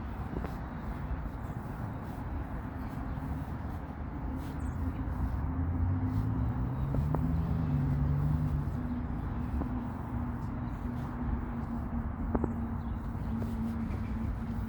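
Outdoor traffic noise: a steady low rumble with a motor vehicle passing, its engine note rising and growing loudest about six to nine seconds in, then fading back.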